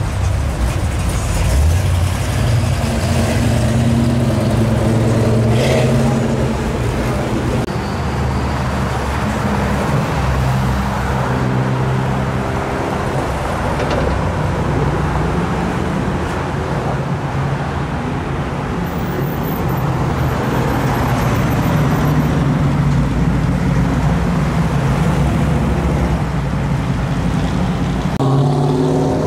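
Classic American muscle cars driving past slowly one after another, their engines rumbling and rising and falling in pitch as they pull away, over steady street traffic noise.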